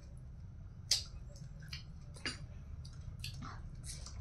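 Close-up eating sounds: crunchy bites and wet chewing of a raw green vegetable, with a few sharp crunches, the loudest about a second in.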